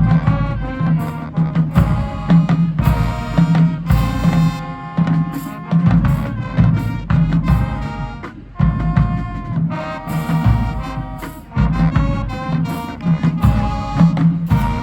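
High school marching band playing: loud brass chords punctuated by frequent sharp drum and cymbal hits.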